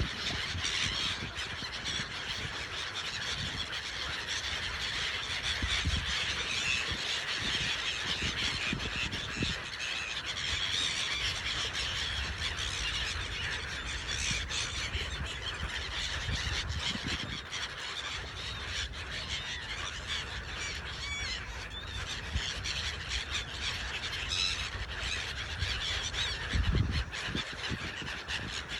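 A flock of gulls calling continuously, many overlapping squealing cries, as they crowd in to feed. Low rumbles come and go underneath, with one stronger low thud near the end.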